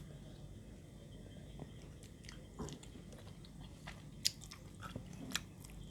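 A person chewing and biting on pounded santol salad, with a few scattered crisp crunching clicks.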